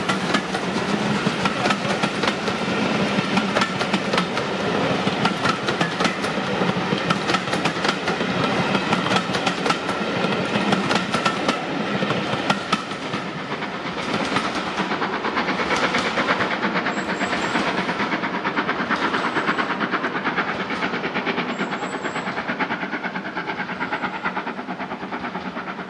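Passenger coaches clattering over the rail joints as they run past and draw away, with a steady high ringing from the wheels and rails. After about 12 seconds the sound eases a little, and the rails keep up a rapid clicking as another train draws near.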